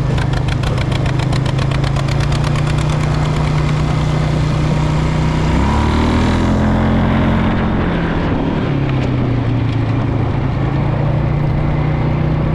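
Tractor engine running steadily; about six seconds in its pitch rises briefly and then settles back.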